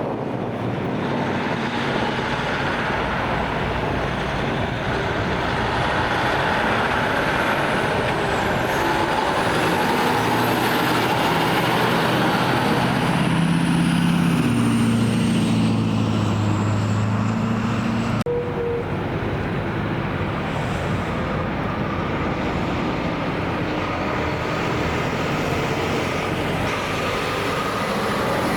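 Heavy trucks passing on a road, with engine and tyre noise. The loudest pass comes about halfway through, and the sound breaks off abruptly about two-thirds of the way in.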